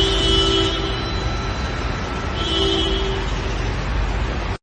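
Road traffic in heavy rain: a steady rushing noise with a low rumble. Two short, steady pitched tones sound near the start and again about halfway through, and the noise cuts off abruptly at the end.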